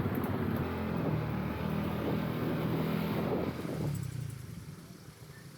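Yamaha Aerox scooter's engine running on the road with tyre and wind noise, a steady low hum that dies away sharply about four seconds in as the scooter slows and stops.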